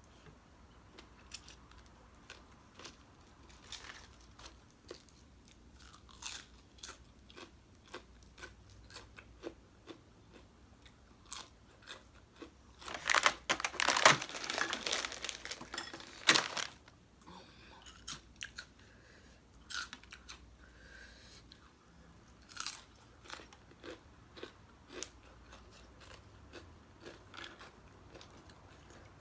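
A person chewing mouthfuls of green papaya salad, with a steady run of short crunches and smacks. About halfway through comes a loud stretch of crunching lasting about three seconds.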